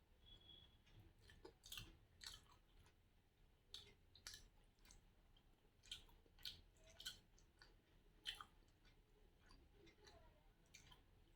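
A person chewing a mouthful of rice and curry, faint and close up, with irregular wet mouth clicks and smacks several times a second.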